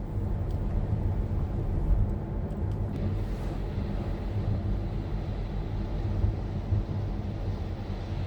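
Steady low rumble of a car's engine and tyres heard from inside the cabin while driving. A faint hiss joins in about three seconds in.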